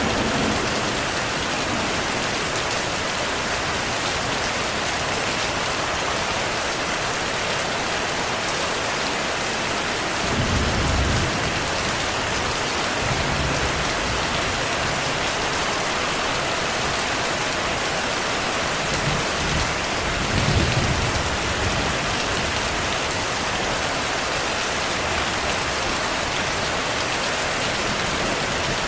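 Steady rainfall with low rumbles of thunder, about ten seconds in, again a few seconds later, and near twenty seconds in.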